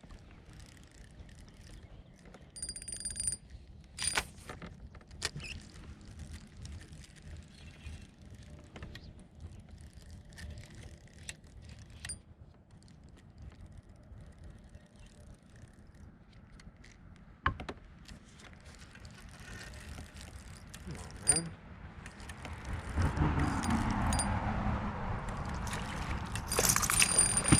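Fishing reel being worked while casting and retrieving from a kayak: ratcheting, mechanical reel sounds with scattered clicks and knocks, and a louder rushing noise in the last few seconds.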